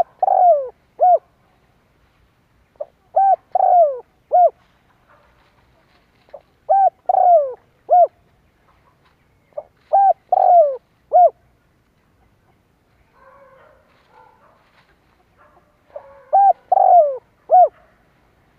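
Spotted dove cooing: five phrases of three or four short notes, one with a longer falling note in the middle, repeated about every three seconds, with a longer pause between the fourth and fifth phrases.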